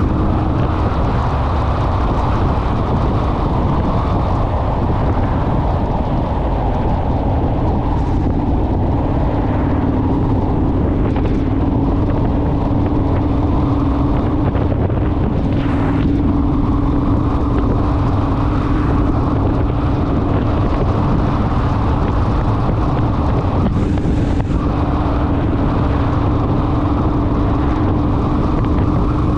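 Honda Rebel motorcycle engine droning at a steady cruising speed, its pitch dipping slightly a few seconds in and then holding. Heavy wind rushes over the microphone while riding.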